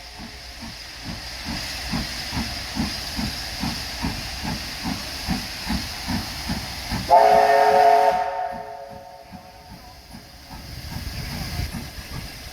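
Steam locomotive 3526, a NSW C35 class 4-6-0, working steadily with exhaust beats at about three a second. About seven seconds in it gives one whistle blast of about a second. After that the beats fade into a steam hiss.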